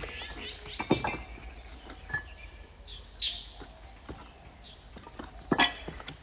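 A few sharp knocks and clinks from debris being handled, the loudest about a second in and again near the end, with short high chirps in between.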